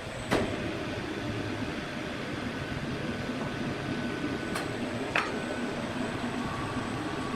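Sawmill machinery running steadily, with a thin whine through the middle and two sharp knocks, one just after the start and one about five seconds in.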